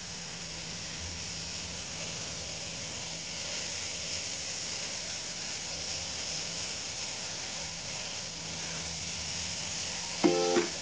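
Potato strips sizzling steadily in hot oil in a wok as they are stirred with a silicone spatula. Near the end, ukulele music comes in.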